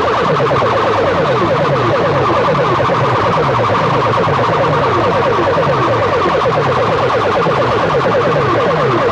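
Loudspeaker stacks of a sound system blasting a siren-like electronic effect tone at full volume: a steady stream of repeating falling sweeps, about two a second in the low range with faster falling chirps above.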